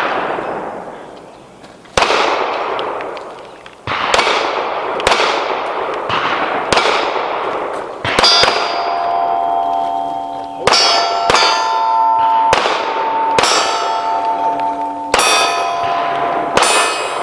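A string of pistol shots at a Steel Challenge stage, spaced about one to two seconds apart, slower at first and then quicker. From about eight seconds in, struck steel plates ring on between the shots.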